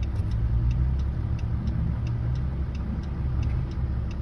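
Truck engine running at low revs under load, a steady low rumble with a faint regular ticking about three times a second; the onlooker thinks the truck is still in the high range, not downshifted.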